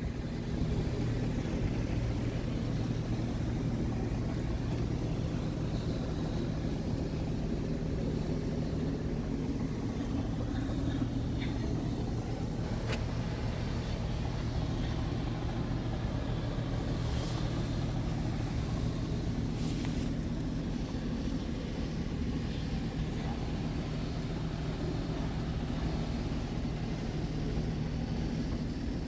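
Scania P truck's diesel engine idling steadily, with a few faint clicks in the middle.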